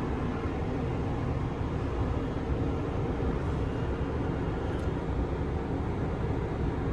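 Steady low hum and rumble inside a parked Kintetsu 7020 series electric train car, its onboard equipment running while it stands at the platform. A faint steady tone sits over the hum for the first few seconds.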